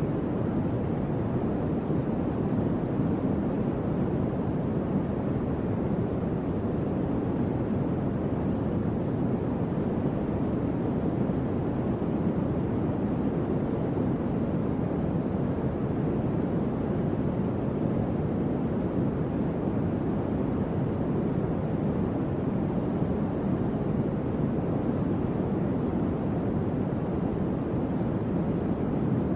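Electric fan running steadily: an even, low whooshing hum with no change or break.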